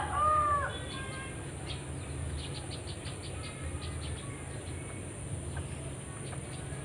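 The tail of a rooster's crow in the first second, then faint scattered bird chirps and ticks over a steady low hum and a steady high whine.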